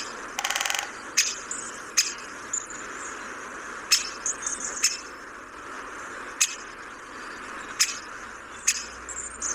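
Bird sounds: a short harsh buzzy call near the start, then brief high chirps now and then, with sharp clicks coming irregularly about once a second over a steady hiss.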